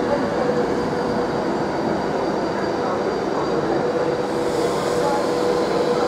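Class 390 Pendolino electric train moving past along the platform: a steady rolling rumble of wheels on track with a steady hum.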